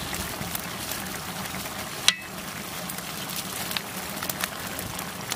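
Thick mushroom and tomato masala sizzling in a large pot over a wood fire, with many small crackles and one sharp pop about two seconds in.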